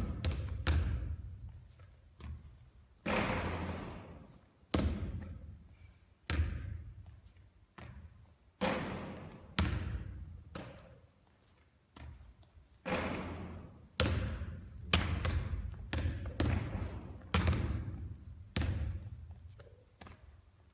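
A basketball thudding and bouncing on a hard court during three-point shooting practice. The sharp thuds come about once every second, each trailing off in a short ringing echo.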